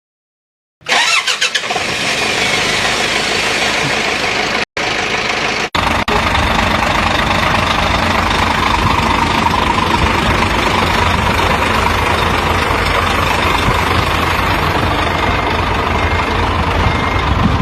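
A truck engine starts suddenly about a second in, breaks off twice in short gaps, then runs steadily at a low idle. Near the end a reversing beeper begins to beep.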